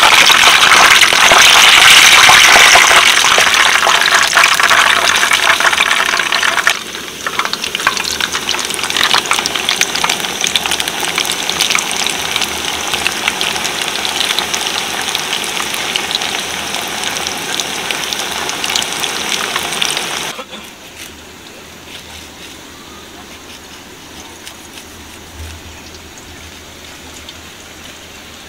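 Heavy rain falling, a dense hiss that drops abruptly in level about 7 seconds in and again about 20 seconds in, becoming much quieter.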